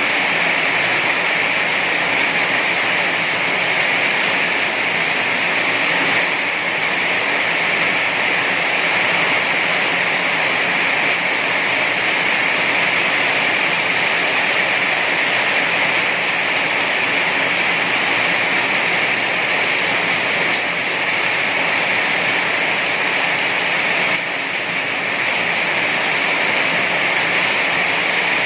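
Heavy rain pouring in a steady, dense hiss.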